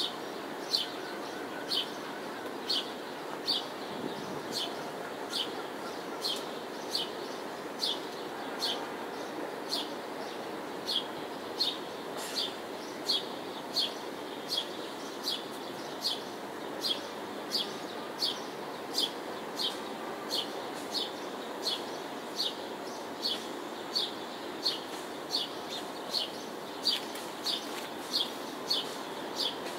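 A bird repeating one short high chirp over and over at an even pace, about three every two seconds, over a steady hum of distant city noise.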